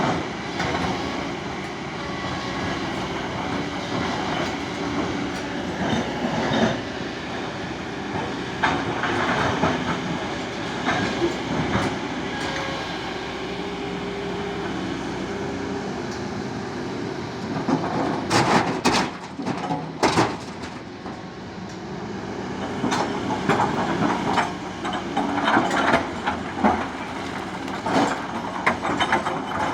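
Kobelco 220 hydraulic excavator working: its diesel engine drones steadily under a running clatter of metal and rock knocks, with heavier bursts of clanking about two-thirds through and again near the end.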